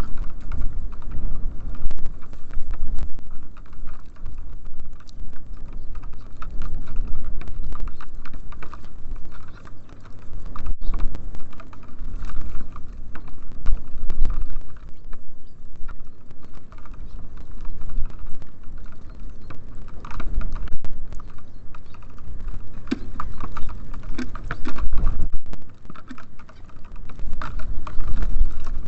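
Small birds (tits and sparrows) pecking and hopping on a wooden bird feeder: rapid, irregular tapping and clicking, over a steady low rumble.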